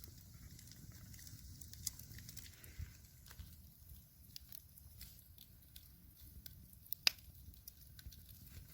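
Wood fire in a hearth crackling faintly, with scattered small pops and one sharper pop about seven seconds in.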